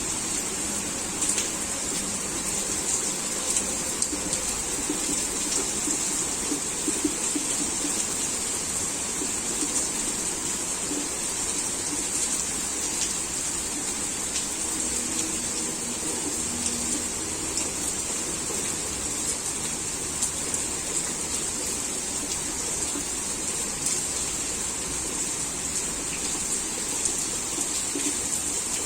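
Heavy rain falling steadily, with the patter of individual drops over an even hiss.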